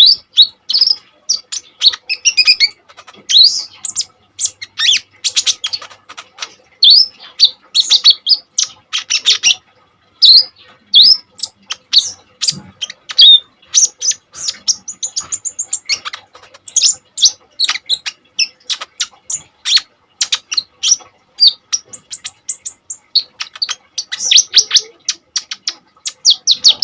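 A kolibri ninja (konin) sunbird singing in full, energetic song: a rapid stream of sharp, high chirps and fast trills with only short pauses.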